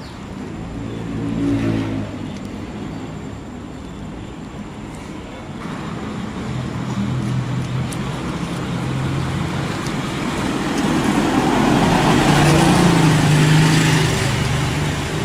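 A road vehicle's engine running with traffic noise, growing louder toward the end and easing off just before it closes.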